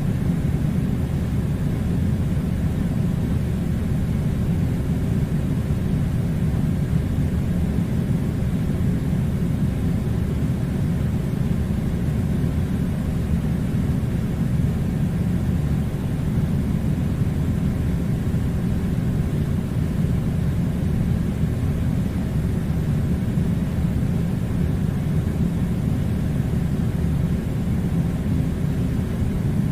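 Air conditioner running: a steady low rumbling noise that holds constant throughout.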